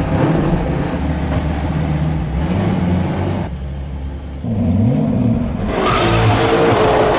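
Sports car engine revving and accelerating. Its pitch drops and climbs again about halfway through, then the engine builds again.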